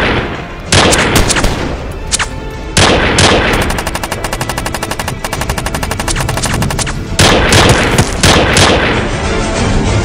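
Automatic rifle fire in repeated bursts, with a long rapid, evenly spaced burst in the middle and more shots after it: covering fire in a firefight.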